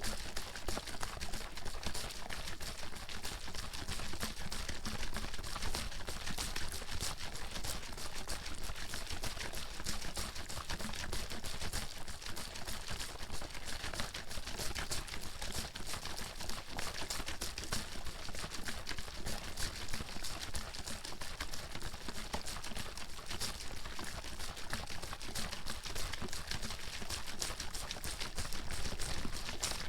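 Water sloshing inside a bottle being shaken continuously, a dense run of quick knocks and splashes with no pause.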